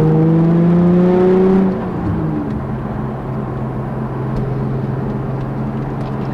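Nissan 350Z's 3.5-litre V6, breathing through an Injen cat-back exhaust with the catalysts removed, heard from inside the cabin. The revs climb for nearly two seconds, then fall back, and the engine runs on steadily at a lower pitch.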